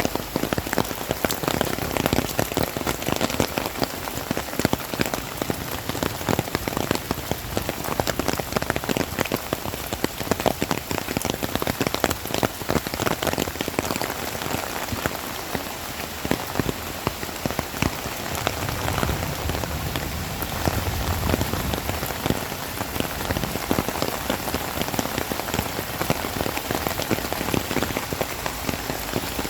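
Heavy rain falling steadily, a dense hiss made of countless drops striking surfaces.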